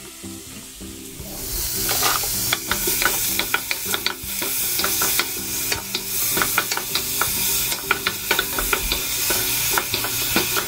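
Onion, garlic, carrot and bay leaves sizzling in oil in a saucepan, stirred with a utensil that clicks against the pan. The sizzle comes up louder about a second and a half in.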